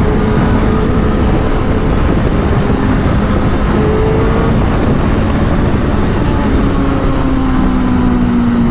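Superbike engines running at a steady cruise, with heavy wind rush over the microphone; a few engine tones hold steady, drifting slightly in pitch.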